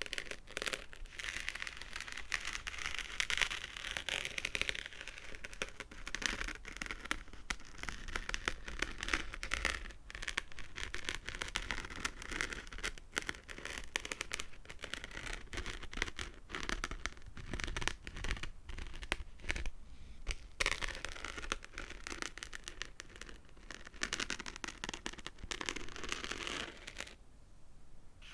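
Fingernails tapping and scratching close to a microphone, a dense run of quick clicks and scraping, with a brief lull near the end.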